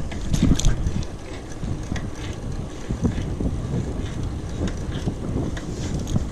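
Wind buffeting the microphone, a steady low rumble, with scattered light clicks and rattles.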